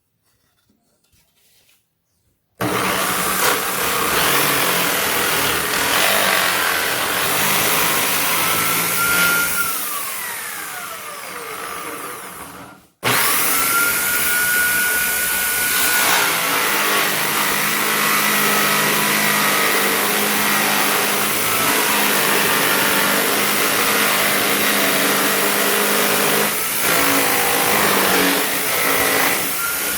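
Electric drill running loud and steady, working on material. Its pitch slides down as it slows around ten seconds in, it cuts off abruptly at about thirteen seconds, and it runs again straight after.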